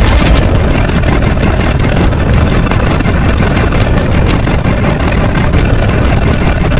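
A loud, steady rumbling noise, heaviest in the low end, that runs without a break.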